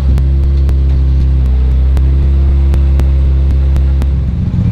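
Rally car engine held at steady revs, loud and even, with light sharp ticks over it; near the end the note turns rougher and choppier as the revs change.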